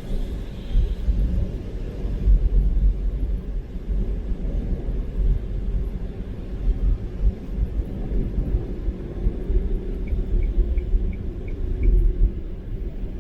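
A moving car's low, steady rumble of road and engine noise, with a short run of faint ticks near the end.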